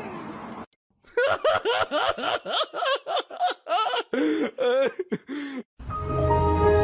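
High-pitched laughter in a quick run of short bursts, each rising and falling in pitch. Music comes in near the end.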